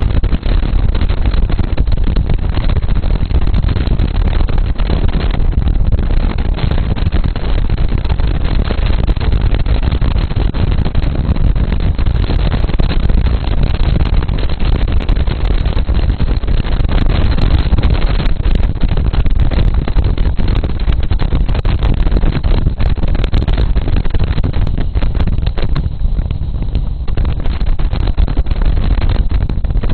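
Wind buffeting the microphone of a camera taped to a moving bike: a loud, steady low rumble of noise.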